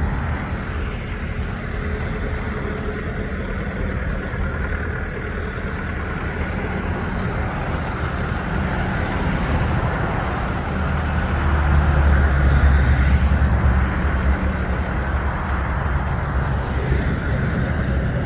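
John Deere 6110M tractor's diesel engine running steadily at idle, getting louder for a couple of seconds past the middle.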